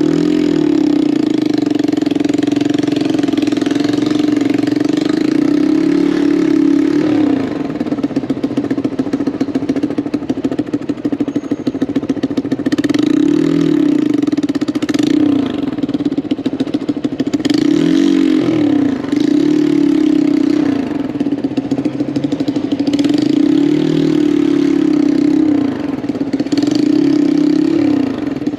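Lifan KP200 200cc motorcycle engine running under way, its pitch rising and falling again and again as the throttle opens and closes and the gears change.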